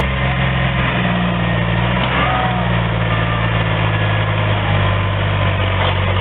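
Heavy vehicle engine idling steadily with a deep, even hum.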